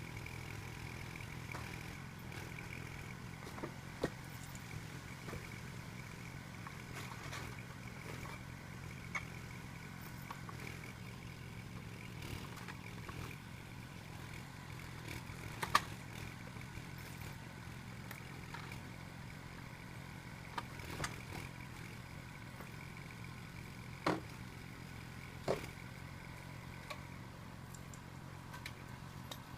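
Engine of a log loader running steadily with a low hum, while the loader lifts logs onto a trailer. A few sharp knocks and clatters come through, the loudest about halfway in.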